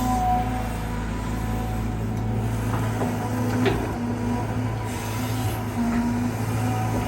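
Caterpillar 320GX excavator's four-cylinder Cat C4.4 diesel running steadily under digging load, with the whine of its hydraulic pump. A short sharp knock comes about three and a half seconds in.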